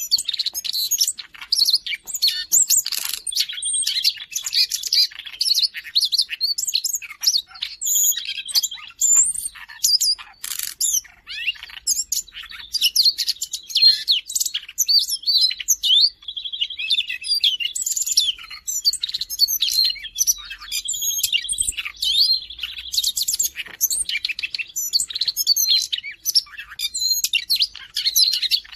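Siberian rubythroat in full song: a fast, unbroken run of varied high chirps, whistles and warbles, with rattling trills coming back every few seconds.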